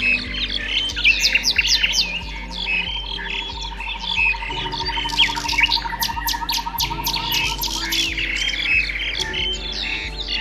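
Many songbirds chirping and calling at once, dense overlapping short chirps and whistles, with a fast even trill running through most of it that stops about eight seconds in.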